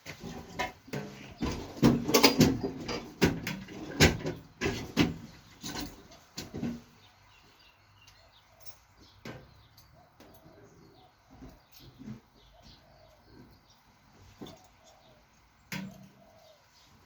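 Metal tools and suspension-fork parts clicking and knocking as a RockShox Judy fork is taken apart by hand: a busy run of sharp clicks and knocks over the first several seconds, then only occasional taps.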